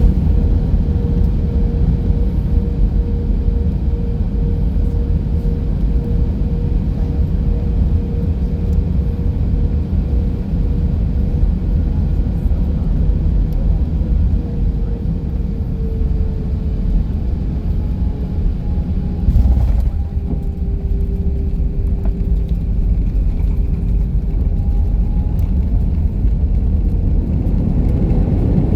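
Cabin noise of an Airbus A319 airliner in flight: a loud, steady low rumble of engines and airflow with a steady hum that slides lower in pitch about halfway through, and a brief louder moment a few seconds later.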